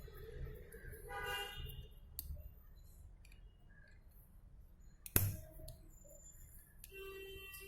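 Small metal parts and tools clicking and clinking as a microwave oven's fan motor is taken apart, with one sharp knock about five seconds in.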